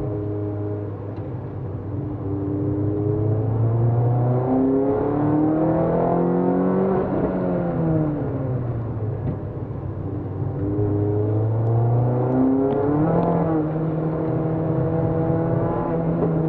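Peugeot 206 RC's 2.0-litre four-cylinder engine heard from inside the cabin under hard track driving: the revs climb for several seconds, fall away as the car brakes about halfway through, then climb again and settle.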